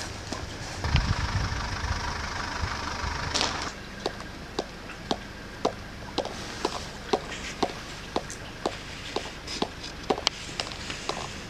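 Footsteps crunching in fresh snow at a walking pace, about two steps a second, from about four seconds in. Before that a steady hiss with a faint hum, which cuts off suddenly.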